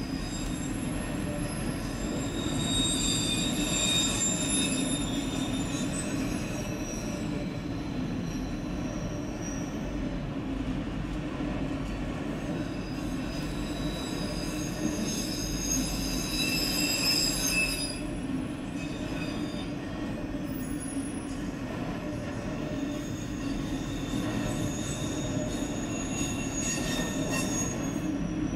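Freight train of autorack cars rolling past, a steady rumble of wheels on rail, with high-pitched wheel squeal coming and going in three stretches.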